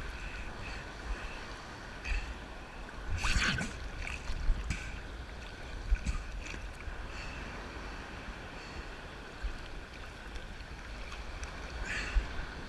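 Ocean surf washing around a person standing in the waves, with wind buffeting the microphone. A big wave comes through with a louder rush about three seconds in.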